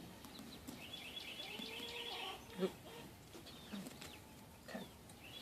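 Outdoor bird calls: a rapid high trill of repeated notes, with fainter calls around it and a second trill starting near the end. A single sharp knock comes about two and a half seconds in.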